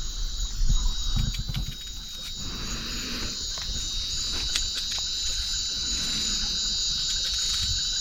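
Steady high-pitched chorus of night insects such as crickets, several trilling tones at once, with a few light knocks and some handling noise in the first couple of seconds.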